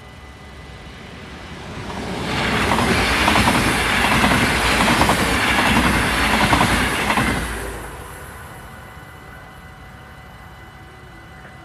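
A yellow NS double-decker electric passenger train passing over a level crossing. The rumble and wheel clatter swell over about two seconds, stay loud for about five, then fade quickly. The crossing's warning bell rings steadily behind it.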